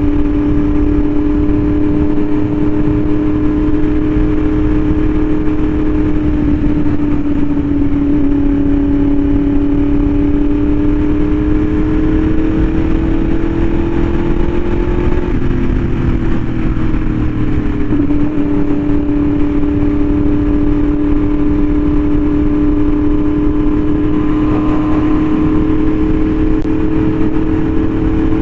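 Yamaha R1M's crossplane inline-four running through an SC Project exhaust, cruising at a steady engine speed with wind rush underneath. The pitch creeps up slowly, drops for a couple of seconds around halfway through, then holds steady again.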